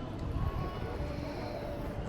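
City-centre street ambience: a steady low hum of traffic.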